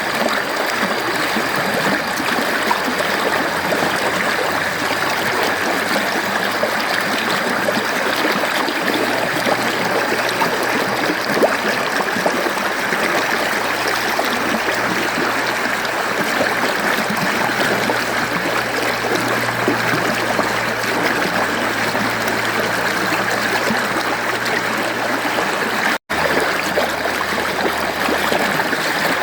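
Mountain stream water flowing and gurgling over rocks in a steady rush. It cuts out for a split second near the end.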